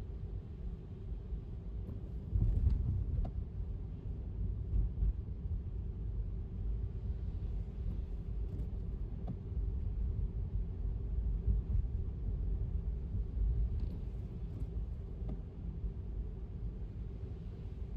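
A car's low, steady road and tyre rumble while driving, with a louder bump about two and a half seconds in.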